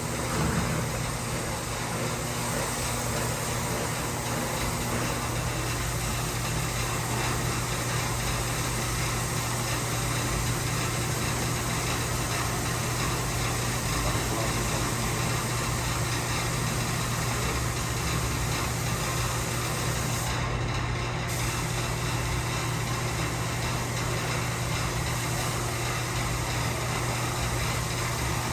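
Eaton/Fuller RTX11710C 10-speed truck transmission running, a steady mechanical hum and gear noise that holds unchanged throughout.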